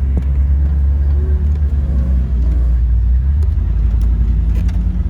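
Steady low rumble of an off-road vehicle's engine running.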